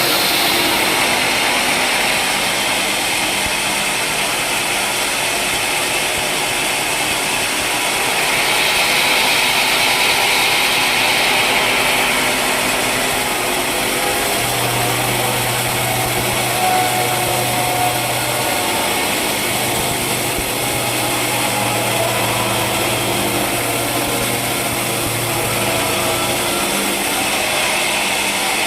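Sawmill saw running as it cuts timber, a loud steady mechanical noise. A low hum comes in about halfway through and drops out near the end.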